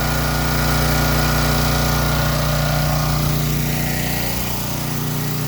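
Champion portable generator's engine running steadily under load, carrying a whole house and a 3.5-ton central air conditioner with room to spare.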